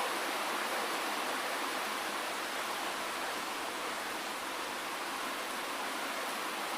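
Steady rainfall, an even hiss with no single drops or other sounds standing out.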